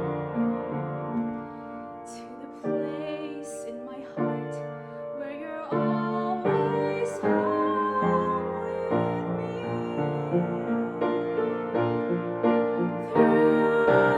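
Piano playing a slow, gentle passage of sustained chords, each chord struck about once a second.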